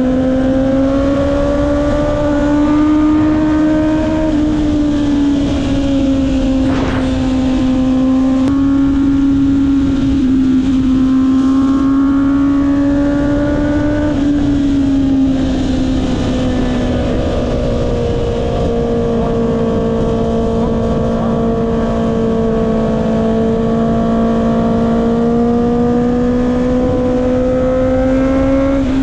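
Honda CB650R's inline-four engine breathing through an Akrapovic exhaust while riding at fairly steady revs. The pitch rises and eases off gently a few times over a rush of wind.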